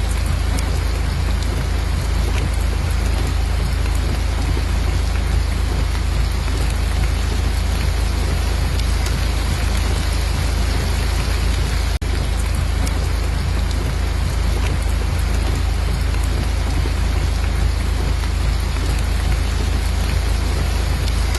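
Steady rain falling, an even hiss with fine scattered drop ticks over a constant deep rumble. The level dips for a moment about twelve seconds in.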